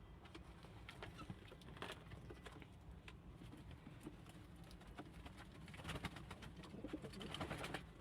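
Domestic pigeons cooing, with scattered light clicks; the cooing is loudest in the last two seconds.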